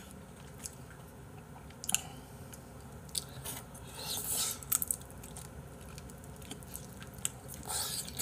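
Close-up eating sounds: a person biting into and chewing a piece of braised chicken in spicy sauce, with scattered short wet smacks and clicks.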